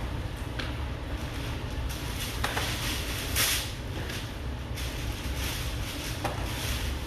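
Paintbrush strokes rasping across a canvas, several short scrapes in the middle with a few light taps, over a steady low hum.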